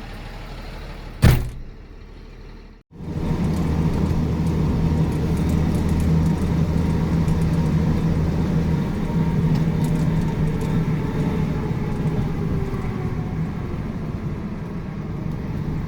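A single sharp slam about a second in, then a box truck's engine running steadily from about three seconds on, with a low, even rumble.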